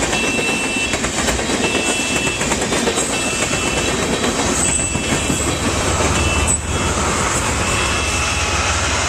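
A train rolling past on the rails in a steady loud rumble, with a short high beep repeating about every one and a half seconds over it. The low rumble grows heavier about two-thirds of the way through.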